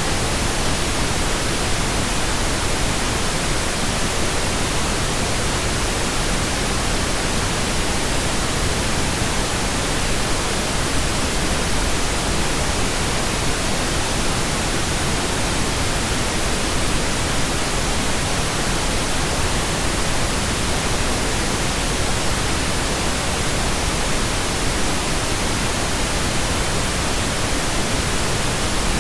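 Steady pink noise generated in Audacity: an even, unchanging hiss spread across the whole range of pitch, with no events or changes.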